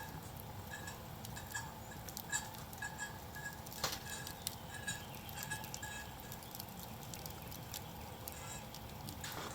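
A campfire crackling with small scattered snaps, while a bird repeats a short high call about twice a second for the first six seconds.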